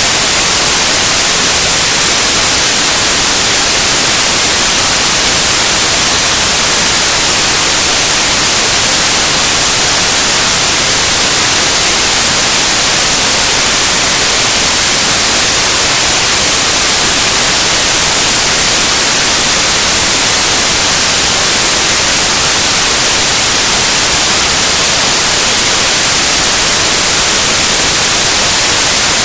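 Loud, steady static hiss, strongest in the high treble and unchanging throughout, with no engine or other sound standing out from it.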